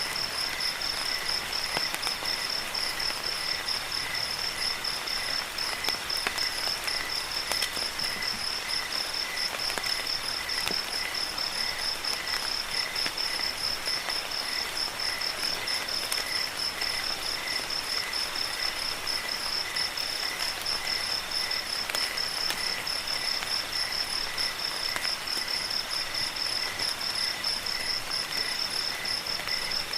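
Crickets chirping in a steady, evenly pulsed high trill, with a second insect calling in separate bursts about a second long, over a steady hiss of rain with scattered drips.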